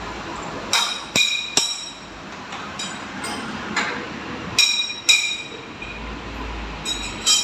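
Metal clinking in a machining workshop: about seven sharp strikes, each with a brief ringing tone, at uneven intervals over a steady background of machine noise.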